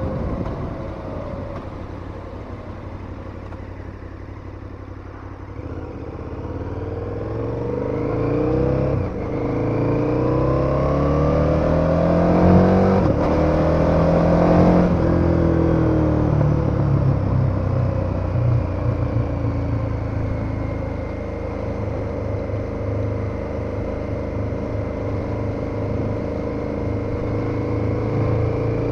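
KTM 1290 Super Adventure's V-twin engine under way. It runs quietly at first, then pulls up through the revs from about six seconds in, with a brief dip near nine seconds. About fifteen seconds in it eases off and settles to a steady cruise.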